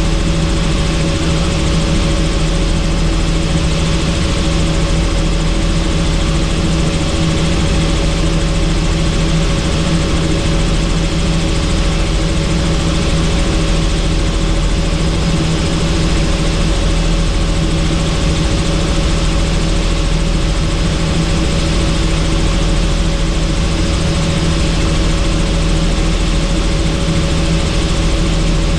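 Helicopter in steady flight heard from inside its doors-off cabin: an even drone of rotor and engine, a few steady tones over a constant rushing noise.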